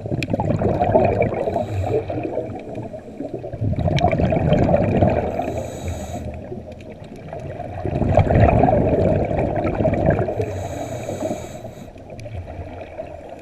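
Scuba diver breathing underwater through a regulator, about three slow breaths. Each exhale is a gush of bubbles, followed by a brief hiss of air on the inhale.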